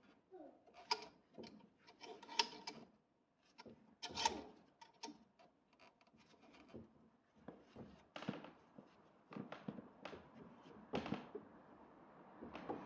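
Hand work on car parts with tools: irregular clicks, knocks and clinks, a few sharp ones in the first half, with rubbing and scraping between them.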